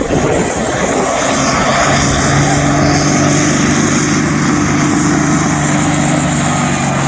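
Turbocharged pulling tractor's engine running hard at high revs under load during a pull, with a steady high whine over it. Its pitch steps up about two seconds in and then holds.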